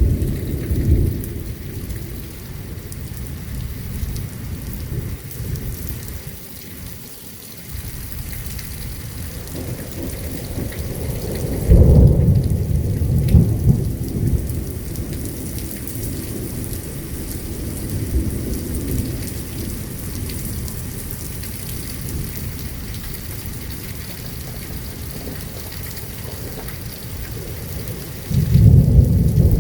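Thunderstorm: rain hissing steadily with rolling thunder. The loudest thunder rumbles come about twelve seconds in and again near the end, with a smaller rumble right at the start.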